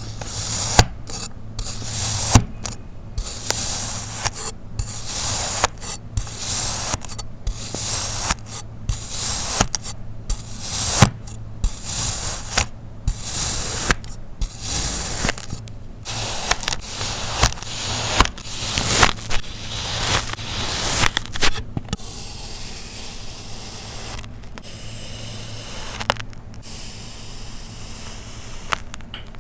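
Kinetic sand being cut: a run of grainy slicing strokes, roughly one a second, each a hiss with a sharp click here and there. Near the end the strokes give way to a steadier, longer grainy hiss.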